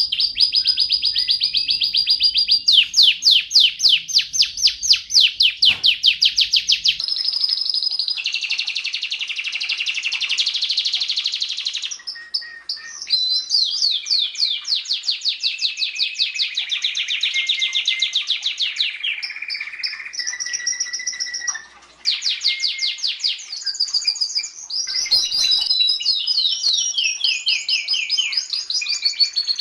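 Domestic canary singing a long, continuous song of rapid trills, each trill a fast run of repeated high notes that gives way to the next, with two short dips in the song partway through.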